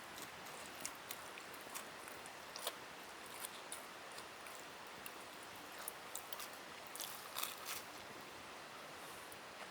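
Faint steady rush of a nearby river, with scattered light clicks and small crunches over it, a few close together about seven seconds in.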